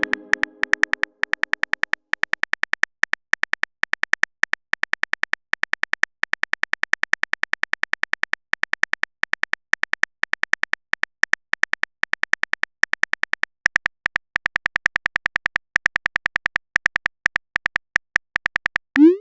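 Chat typing sound effect: a long run of short, sharp electronic clicks with a thin high tone, in quick bursts of several clicks separated by brief pauses.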